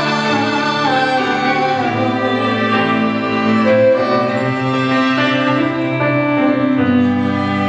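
Piano and string quartet (two violins, viola, cello) playing an instrumental passage with long sustained bowed notes.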